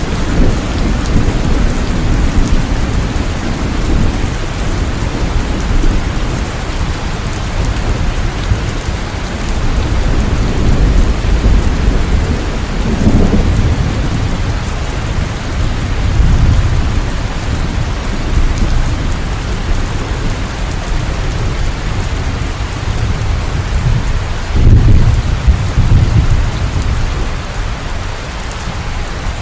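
Steady heavy rain with rolling thunder: low rumbles swell about halfway through and again, loudest, near the end.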